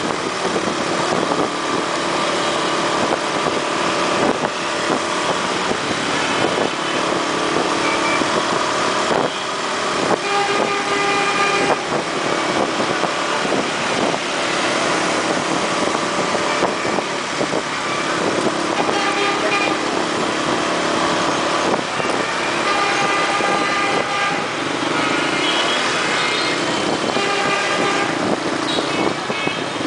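Dense motorbike and car traffic: engines running steadily, with many short horn toots sounding again and again through it.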